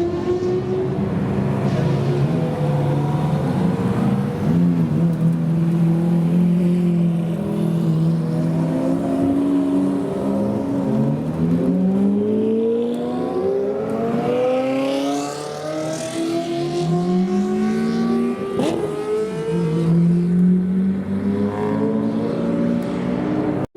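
Several supercar engines running loud, first holding a steady drone, then revving up in repeated rising sweeps as they accelerate. A sharp crack comes about nineteen seconds in.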